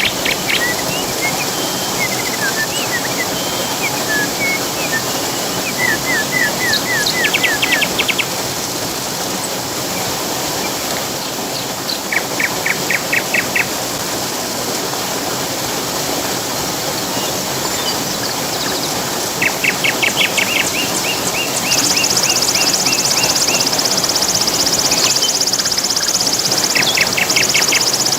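Steady rushing water of a waterfall and river, with birds singing over it in quick runs of repeated chirps, four times. About three-quarters through, a steady high buzz joins.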